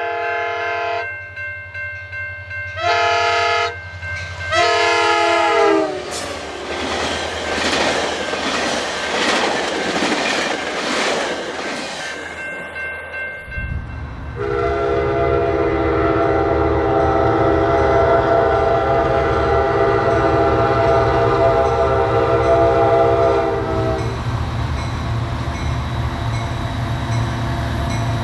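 A diesel passenger locomotive's multi-chime air horn sounds in separate blasts, the last one dropping in pitch as it goes by, then the train's passing wheels and cars rumble. After an abrupt change, a locomotive's diesel engine runs loudly under one long, steady horn blast of about nine seconds, and the engine goes on after the horn stops.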